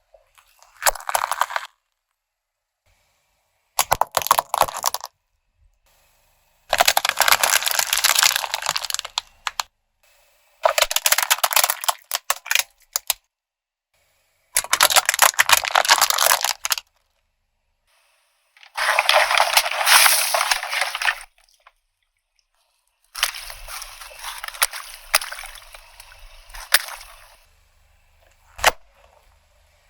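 Objects crunching and crackling as a car tyre rolls over and crushes them, in about seven separate crushes of one to three seconds each with silences between, and a single sharp crack near the end.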